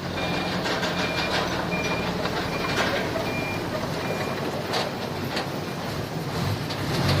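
A heavy vehicle's reversing alarm beeping about once every 0.7 seconds over a running diesel engine, the beeps stopping about four seconds in. The engine drone carries on after the beeps stop.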